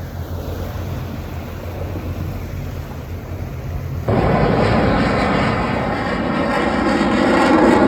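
Steady low hum of a boat engine under tow, then about four seconds in a much louder jet aircraft roar that builds toward the end, as from a military jet passing low overhead.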